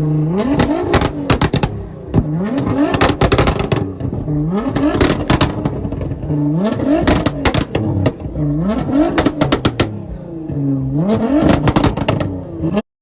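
Car engine revved repeatedly, about every two seconds, each rev climbing in pitch and then dropping back, with a dense crackle of pops from the exhaust.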